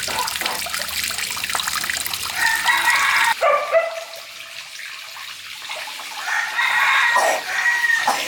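A rooster crowing twice, each crow a drawn-out call of a second or more, the second near the end. Under the first crow a steady hiss runs and cuts off suddenly.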